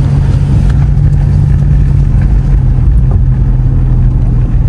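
Car engine and exhaust running steadily with a low, even drone and no revving, heard from inside the cabin.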